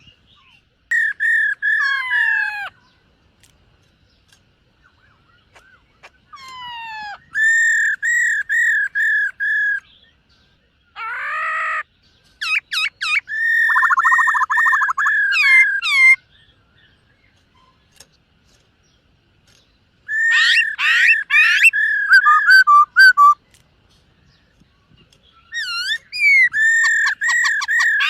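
Black-throated laughingthrush singing: about five loud phrases of rapidly repeated clear whistled notes mixed with sliding calls, separated by pauses of a second or two.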